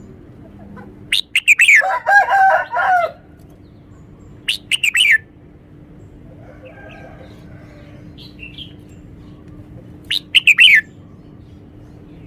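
Red-whiskered bulbul singing: three short, loud bursts of song, the longest about a second in, another a few seconds later and a brief third near the end, with fainter calls in between.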